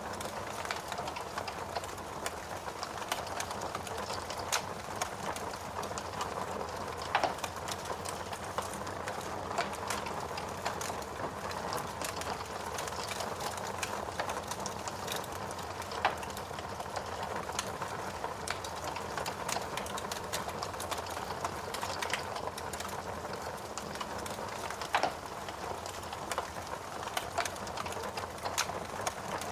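Wood fire crackling, with irregular sharp pops scattered throughout, over a steady hiss of falling rain.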